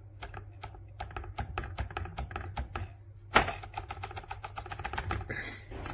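A rapid run of small clicks and taps, about five a second, with one loud knock about halfway through and a brief rustle near the end.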